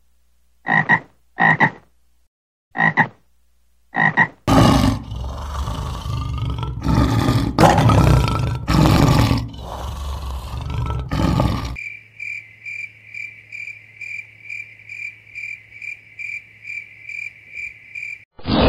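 A frog croaking four times in short separate calls, then a male lion roaring repeatedly and loudly for about seven seconds. After that, a high insect-like buzz pulses about twice a second until near the end.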